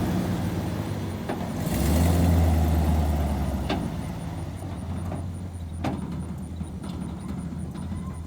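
A vehicle engine idling with a steady low hum that swells for a second or so about two seconds in, then settles. A few sharp clicks are heard over it.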